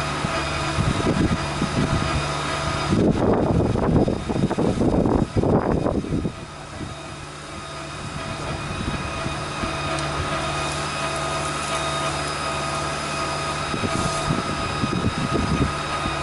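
A machine's motor or engine running steadily with a constant hum. It grows louder and rougher for a few seconds around the middle, then settles back.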